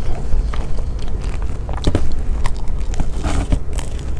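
Biting into and chewing a piece of avocado toast close to a clip-on microphone, with irregular short crunches of the toasted bread.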